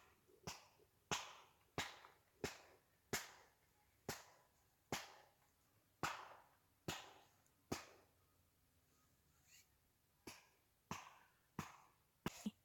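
Firewood being chopped: a steady series of sharp wooden strikes, a little under one a second, with a short pause about two-thirds of the way through.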